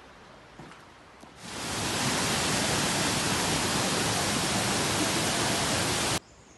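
Waterfall rushing: a loud, steady hiss of falling water that swells in over about half a second and cuts off abruptly near the end.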